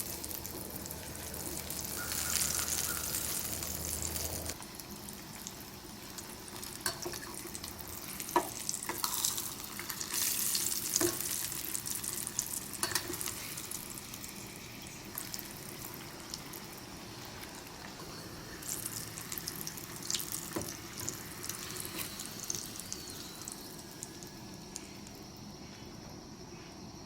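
Breaded Spam steak shallow-frying in hot oil in a pan, a steady sizzle with occasional light clicks.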